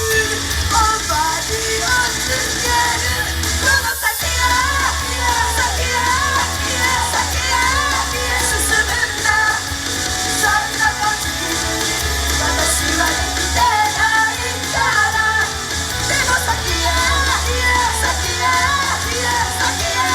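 Idol group singing live over a loud rock-style backing track through a club PA, with heavy bass; the music breaks off for an instant about four seconds in.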